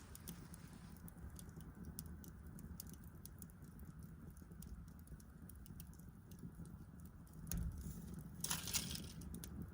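Wood fire crackling, with scattered sharp pops, and a louder rustling noise near the end.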